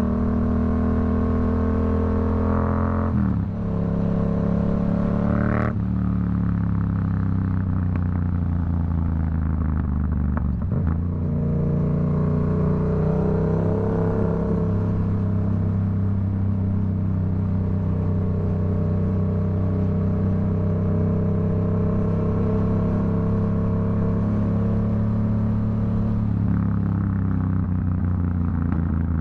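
Yamaha MT-07's 689 cc CP2 parallel-twin engine running through a Black Widow aftermarket exhaust while the bike is ridden. The engine note changes pitch a few times in the first dozen seconds, then holds at steady revs.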